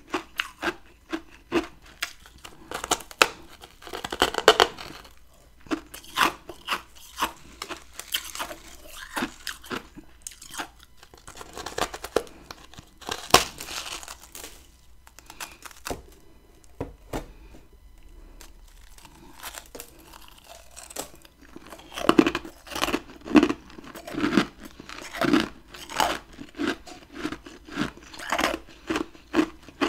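Close-up bites and chewing of chunks of humidifier freezer frost: repeated loud crunches, with a quieter pause about two-thirds of the way in, then a steady run of chewing crunches about one or two a second.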